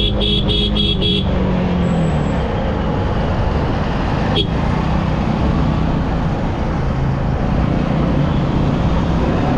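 Single-cylinder Yamaha R15 motorcycle cruising at highway speed, with steady engine, wind and road noise. A rapid run of beeps, about four a second, ends about a second in, and a single sharp click comes about four and a half seconds in.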